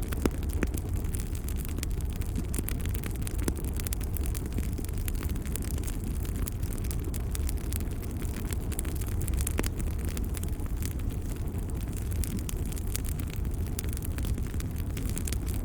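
Wood fire crackling, with frequent small pops and the odd sharper snap over a steady low rumble.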